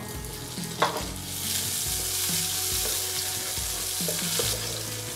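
Chopped onion and tomato sizzling in hot oil in a nonstick frying pan while being stirred with a wooden spatula. A single knock about a second in, then the sizzle swells for about three seconds, with light taps of the spatula against the pan.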